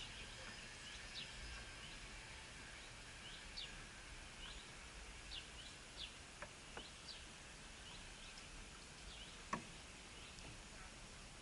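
Faint, short bird chirps repeating at irregular intervals, with a few soft clicks and one sharper tap or knock about nine and a half seconds in.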